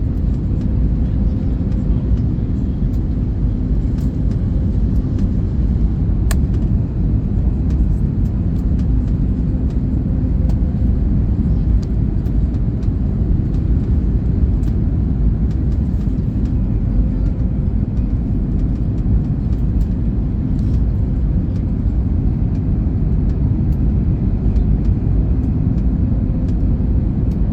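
Steady low rumble of engine and airflow noise inside the cabin of an Airbus A321neo, with a faint steady hum and a few small clicks.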